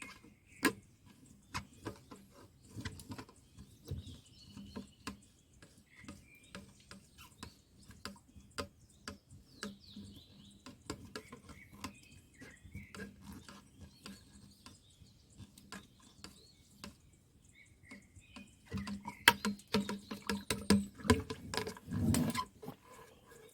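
Irregular clicks and knocks of things being handled, coming thicker and louder in the last few seconds, with small birds chirping in the background.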